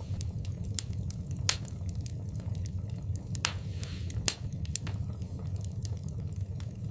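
Wood fire burning in a fireplace: irregular sharp crackles and pops over a steady low rumble of the flames, with a few louder pops.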